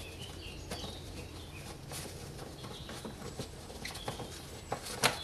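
Scattered light clicks and taps from bolts and hand tools being handled, the loudest a little before the end, over a low steady hum and faint bird chirps.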